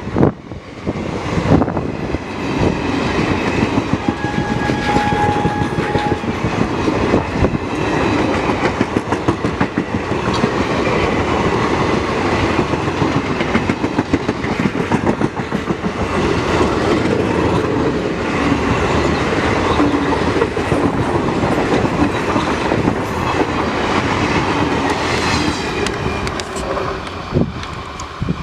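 Coaches of an Indian Railways superfast express train passing close by at speed, the wheels clattering over the rail joints with a steady rumble. A single steady horn note sounds for about two seconds, about four seconds in.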